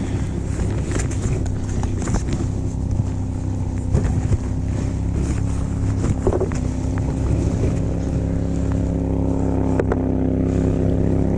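A motor engine drones steadily at an even pitch, with a few short clicks and knocks from close by.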